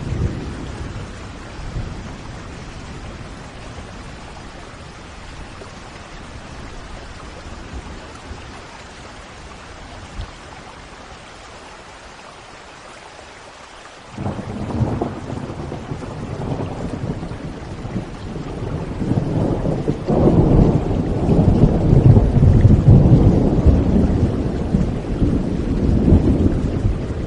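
Thunderstorm: steady rain, then about halfway through thunder starts suddenly and rolls on, building to a long, deep rumble that is loudest near the end.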